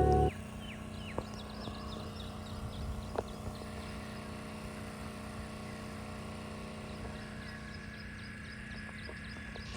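Birds chirping repeatedly in short, falling calls over a steady low hum, with a couple of faint clicks early on.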